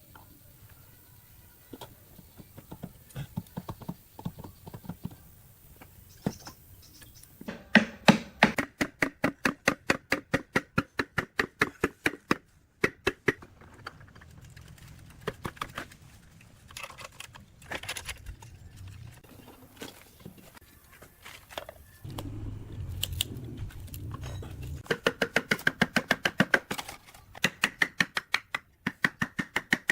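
Quick, rhythmic hand-tool strokes on a workpiece, about four a second, in several runs with pauses between. A low hum comes in briefly about two-thirds of the way through.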